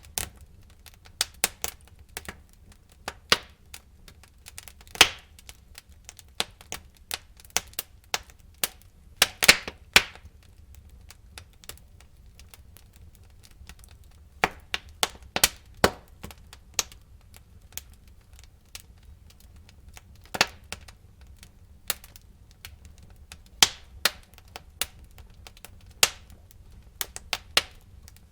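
Wood fire crackling in a fireplace: irregular sharp pops and snaps, some in quick clusters, over a low steady rumble of the flames.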